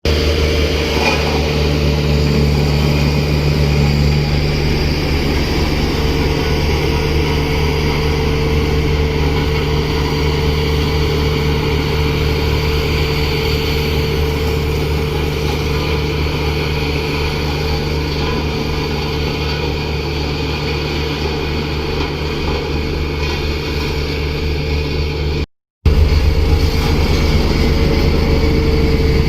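Steady, even engine-like drone with a low hum, broken by a brief silent cut about 25 seconds in, after which it comes back slightly louder.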